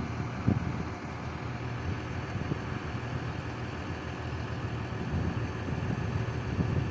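Doosan DX140 excavator's diesel engine running steadily, with a sharp knock about half a second in.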